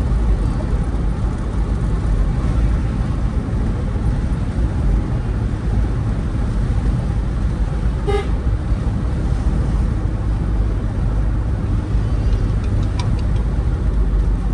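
Steady low rumble of a vehicle driving along a road, with a short horn toot about eight seconds in.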